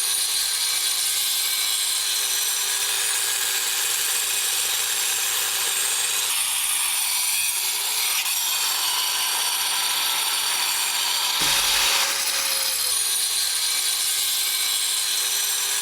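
Grinder with a diamond blade cutting through a cast iron drain pipe: a steady motor whine under a bright grinding hiss, getting briefly louder about twelve seconds in.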